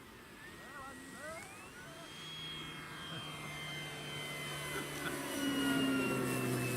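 Electric motor and propeller of a large scale RC warbird model: a whine that rises in pitch about two seconds in, then holds steady as it grows louder toward the end.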